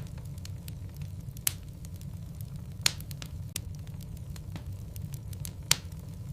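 Wood logs burning in a fireplace: a steady low rumble of flame with scattered crackles. Three louder pops come about one and a half seconds in, about three seconds in, and near the end.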